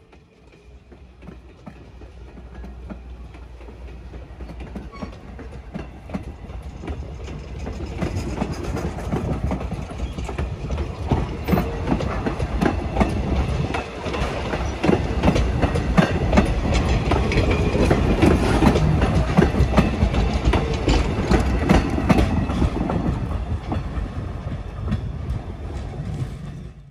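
Norfolk & Western 475 steam train drawing closer and running by, its wheels clicking and clanking over the rail joints. The sound grows louder over the first fifteen seconds or so, stays loud, then eases slightly near the end.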